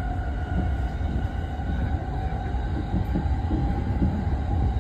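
Electric commuter train running at speed, heard from inside the carriage: a steady rumble of wheels on rails, with a faint steady whine above it.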